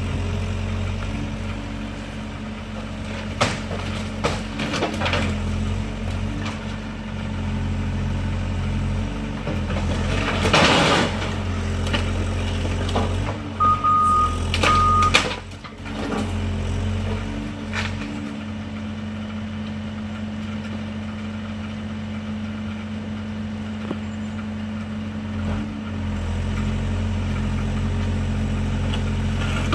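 Excavator's diesel engine running steadily while it tears down a garage, with several crashes and crunches of the structure breaking, the longest about a third of the way in. A reversing alarm beeps twice about halfway through.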